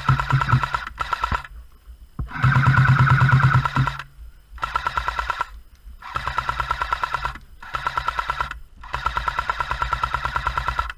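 A&K PKM airsoft light machine gun firing full-auto in a series of bursts with short pauses between, a rapid rattle of shots over a steady motor and gearbox whine. The longest burst, about two seconds, comes near the start.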